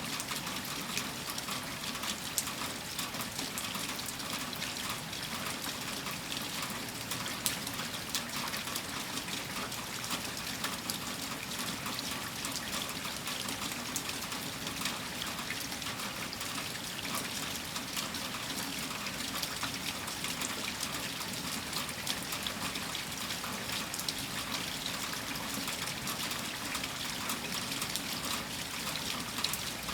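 Heavy rain falling steadily, with water trickling and dripping and many small sharp drop impacts.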